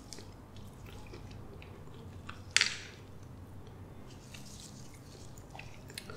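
Soft, wet sounds of custard apple flesh being chewed and squished apart by gloved fingers, quiet overall, with scattered small clicks and one sharper crackle about two and a half seconds in.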